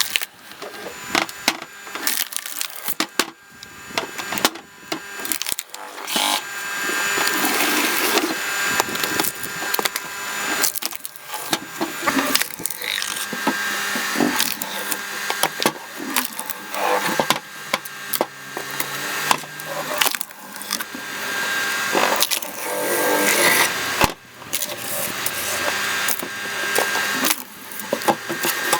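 Screw-cone log splitter running, its threaded cone boring into a log, with repeated sharp cracks and splintering as the wood bursts apart.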